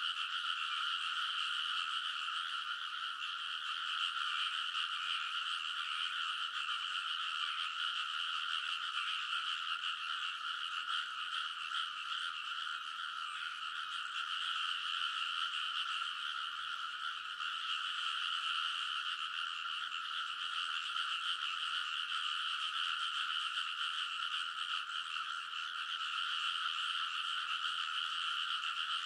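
A dense chorus of many rice-paddy frogs calling at once, their overlapping calls merging into a steady, unbroken din.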